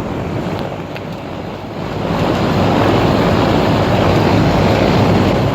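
1992 Carrier Tech2000 4-ton central air conditioner's outdoor unit running in cooling mode: a steady rush of air from the condenser fan over a low hum, growing louder about two seconds in.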